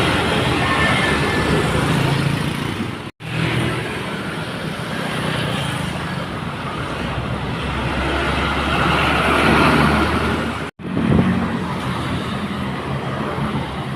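Heavily loaded dump trucks running along a wet road: steady engine drone over road noise, swelling to a deeper rumble about two-thirds of the way through. The sound cuts out abruptly for an instant twice.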